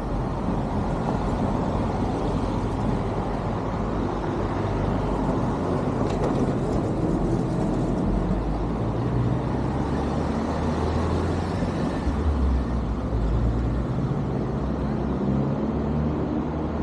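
BMW R1200GS boxer-twin motorcycle engine running under way, its pitch rising and falling gently with the revs, under steady wind and road rush.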